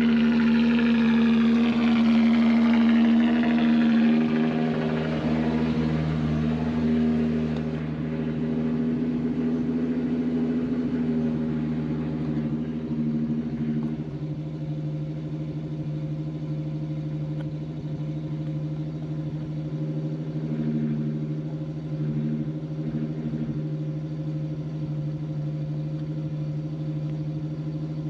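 Turbocharged 12-valve VR6 engine idling steadily just after a cold start, warming up; it gets a little quieter about four to eight seconds in and then holds a steady idle.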